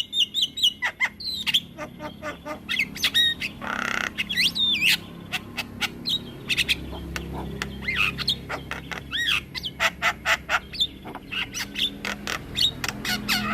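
Javan myna singing a long rolling song of rapid clicks, whistled notes that slide up and down, and harsh squawks, with one rasping call about four seconds in.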